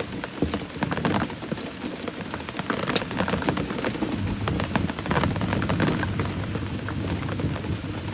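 Rain pattering on the boat and the water: many irregular drops and ticks over a low rumble.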